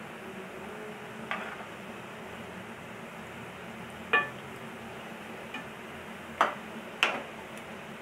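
Small pieces of maida dough deep-frying in oil in a kadai with a steady sizzle. A steel slotted spoon stirs them and clicks against the pan several times, loudest about four seconds in and twice more around six and seven seconds in.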